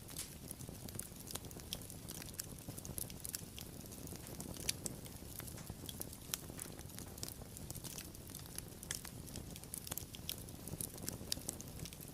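Wood fire crackling: frequent sharp irregular pops and snaps over a steady low rumble of burning, with a few louder pops, the loudest about four and a half seconds in.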